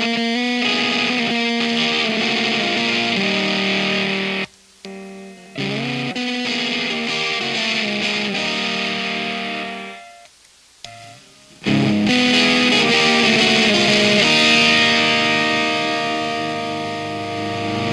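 Electric guitar on its middle single-coil pickup, played through a Diaz Square Face-type fuzz pedal: held, heavily fuzzed chords and notes. The playing stops twice for about a second, about four and a half and ten seconds in.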